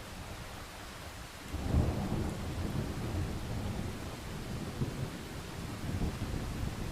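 Steady rain hissing, with a low thunder rumble breaking in about a second and a half in. The rumble surges briefly, then rolls on in uneven swells.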